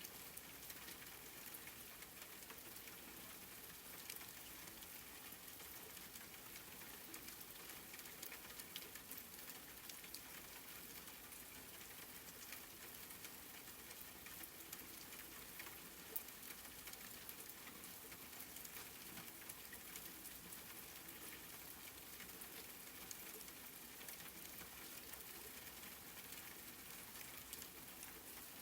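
Steady, soft rain falling, a continuous hiss of drops with fine scattered pattering and an occasional sharper drip.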